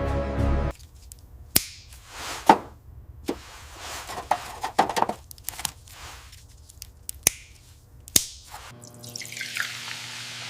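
Scattered sharp clicks and knocks, about eight of them, some with short scraping swishes. Background music cuts off just after the start and comes back near the end.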